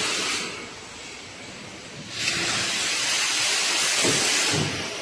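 Loud hiss of compressed air in two spells: it stops about half a second in and starts again abruptly about two seconds in.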